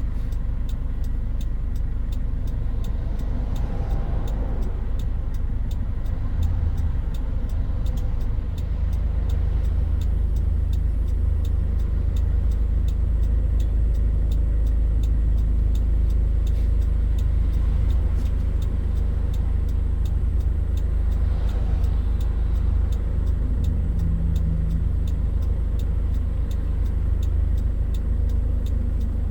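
Toyota Hilux Mighty-X pickup heard from inside the cab while driving: a steady low engine and road rumble, with a faint regular ticking.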